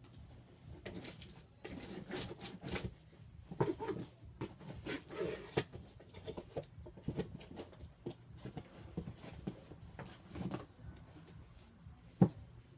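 A large cardboard box being opened by hand: irregular knocks, scrapes and rustling of cardboard and packing, with a longer rustle about five seconds in and a sharp knock near the end.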